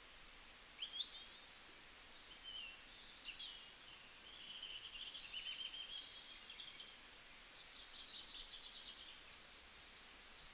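Wild birds calling: scattered short high chirps and quick rising whistles, with a rapid trill late on, over a faint steady hiss.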